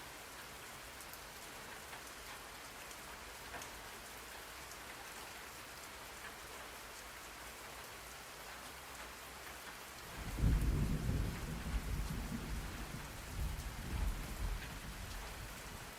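Steady rain falling, with a low roll of thunder rumbling in about ten seconds in and fading toward the end.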